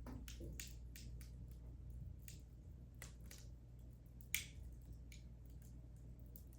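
Wood fire in a fireplace crackling, with scattered sharp pops and snaps and one louder pop a little past halfway, over a low steady hum.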